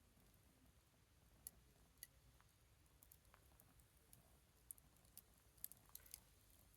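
Faint, sparse crackling of a small wood fire burning low: irregular sharp pops and ticks, coming more often in the second half.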